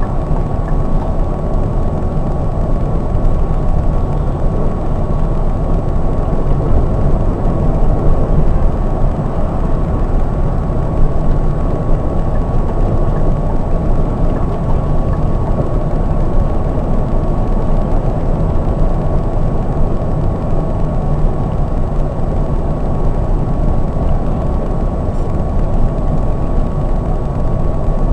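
Scania K420 double-decker coach under way at steady speed, heard from inside: a constant low drone of engine and road noise, with a steady high whine running through it.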